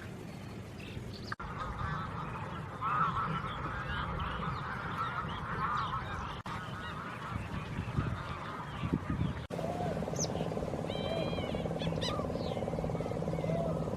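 A large flock of waterfowl calling together: a dense chorus of honking calls, broken by abrupt cuts between clips. In the last part a steady low hum sits under the calls.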